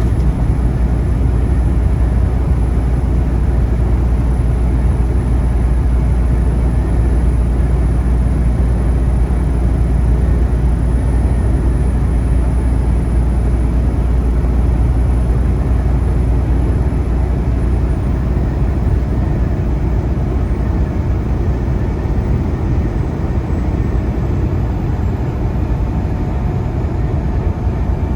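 Freightliner Cascadia semi truck heard from inside the cab at highway speed: a steady low engine drone with road and tyre noise.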